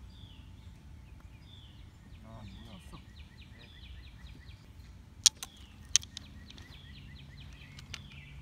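Songbirds chirping steadily, short repeated descending calls, over a low outdoor background. About two-thirds of the way through come two sharp clacks less than a second apart, the loudest sounds.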